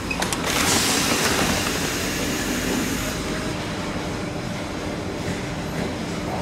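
TGV Duplex high-speed train standing at the platform: a loud hiss comes in about half a second in and fades over the next two seconds, over the train's steady running hum.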